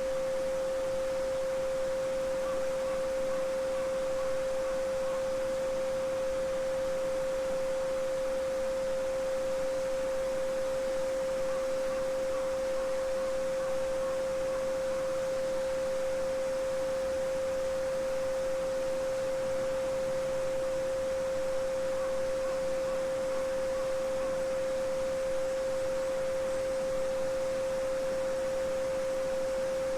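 A steady 528 Hz pure sine tone held unbroken over the babbling of a small brook.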